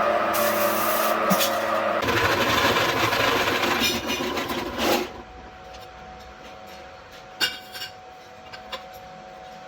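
Metalworking power tool running, then a loud rasping, grinding contact on metal for about three seconds that stops suddenly. A quieter steady machine hum is left, with one sharp click.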